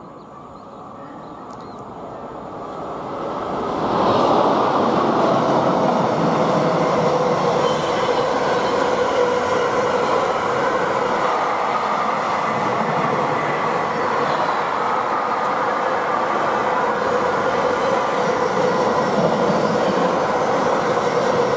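A long train passing on the tracks below. The noise of its wheels on the rails swells over the first four seconds, then holds steady with a thin, steady squeal over it.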